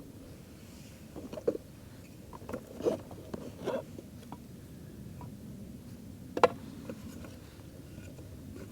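Firewood giving scattered sharp pops and knocks, the loudest about six and a half seconds in, over a steady low rushing noise.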